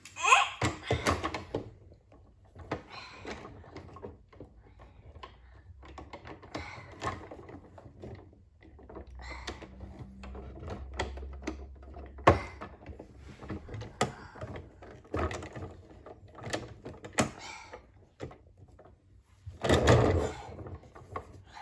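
Toys being handled and played with: scattered clicks and knocks, with a louder burst of noise near the end.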